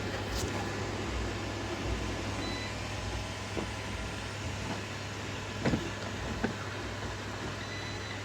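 Robot vacuums running together, a steady mechanical whirr, with a couple of sharp knocks past the middle.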